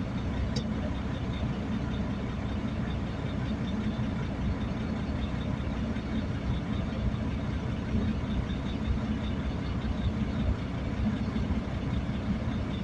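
A steady, low, engine-like rumble with a faint hum, unchanging throughout.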